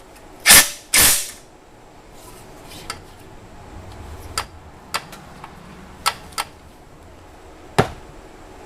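Clatter of tools and metal parts being handled during engine reassembly: two loud short bursts early, then a handful of sharp separate clicks and knocks.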